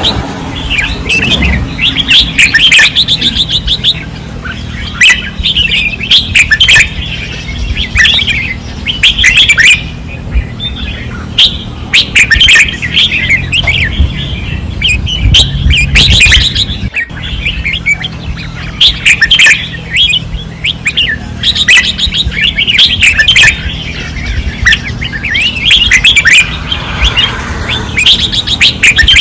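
Caged red-whiskered bulbuls singing hard and repeatedly in short, loud, chattering phrases, over a low steady hum.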